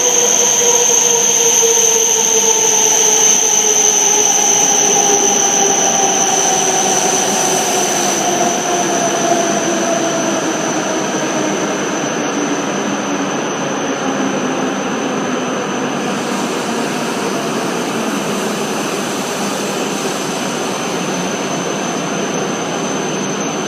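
E7/W7 series Shinkansen train running slowly through the station, its motor whine gliding steadily down in pitch over the first half as it brakes, over wheel and running noise and a steady high whistle.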